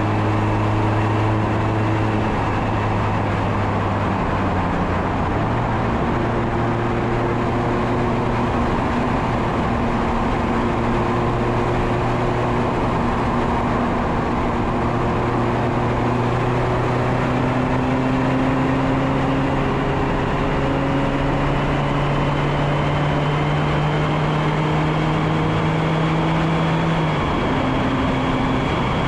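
Mazda MX-5 Miata ND2's four-cylinder engine running under load on a steep climb, its note rising slowly and then dropping near the end, under heavy wind noise on the bumper-mounted microphone.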